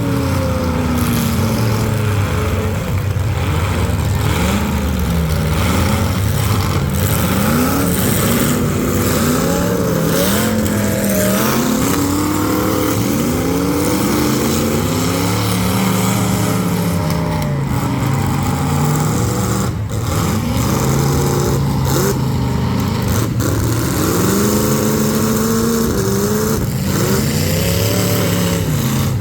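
Several demolition derby cars' engines revving up and down at once, pitches rising and falling as the cars accelerate and back off, with a few sharp bangs from car-on-car hits in the second half.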